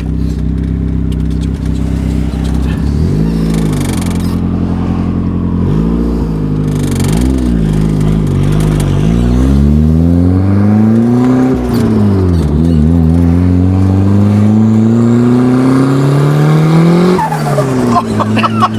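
Turbocharged D16Y8 four-cylinder in a Honda Civic, loud, running steadily at first, then blipped several times and pulled hard twice, the pitch climbing through each long pull. Near the end it drops off sharply on lift-off; with the blow-off valve blocked off, the boost surges back through the turbo here to make flutter.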